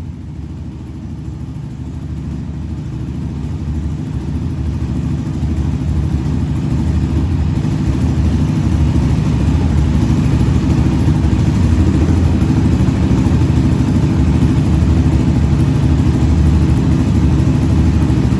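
Yamaha Raptor 700's single-cylinder four-stroke engine running steadily after an engine swap and valve adjustment. It gets louder over the first several seconds, then holds steady.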